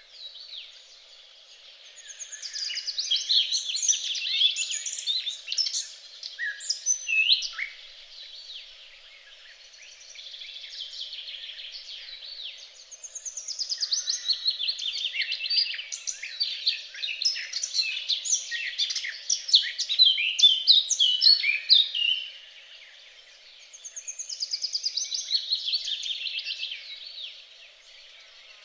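Songbird singing long, varied phrases of rapid high notes and trills, three bouts separated by short pauses, the middle one the longest.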